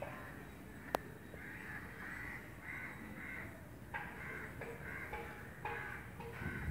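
Birds calling over and over, short harsh calls about twice a second, with a single sharp click about a second in.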